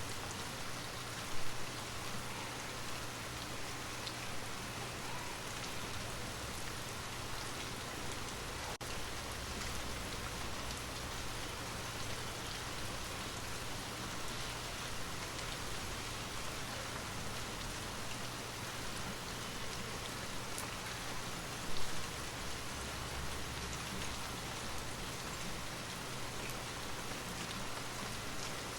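Steady rain falling, an even hiss of many drops on a surface. Twice a brief louder tap stands out, about a second and a half in and again about three-quarters of the way through.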